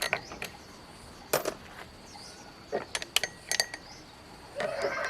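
A few sharp metallic clinks and taps, spread irregularly through the moment, as metal tools or pump parts are handled and set down, over a faint steady high-pitched hum.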